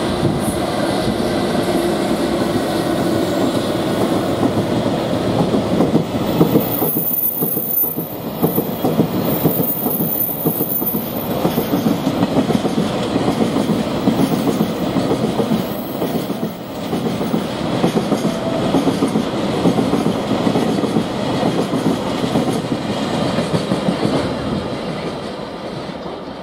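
A freight train of Taki 1000 tank wagons hauled by an EF210 electric locomotive running through at speed, its wheels clacking steadily over the rail joints. A high-pitched wheel squeal comes in about a quarter of the way in and again past the middle, and the clatter dies down at the end as the last wagons go by.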